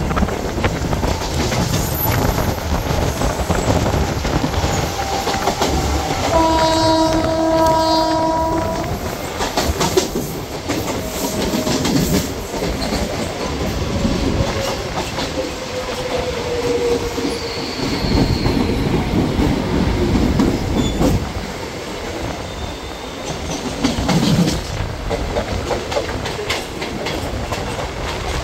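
Suburban electric local train running over the rails at speed, with steady rumble and wheel clatter over joints and points. A train horn sounds for about two and a half seconds, starting around six seconds in, and a falling wheel squeal follows about halfway through.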